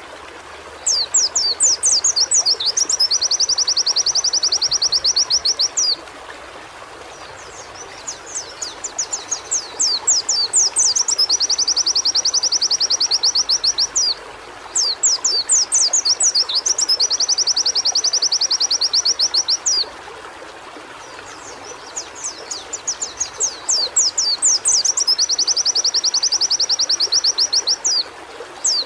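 White-eye (pleci) song: the same phrase four times, each a run of quick sweeping whistles going into a fast, even, high trill that lasts a few seconds, over a steady background hiss.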